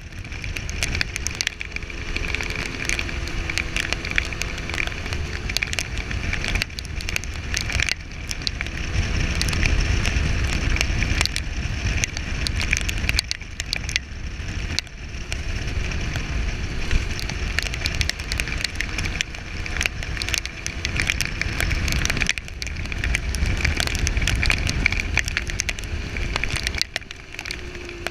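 Husqvarna SM125 125cc supermoto engine running under way, its pitch rising and falling as the throttle opens and closes. It drops off briefly several times, at gear changes or throttle-offs, over a constant crackling rush.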